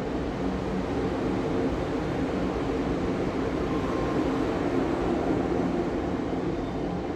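Steady hum and hiss of a standing electric regional train and station machinery on a platform, with a low drone of a few steady pitches.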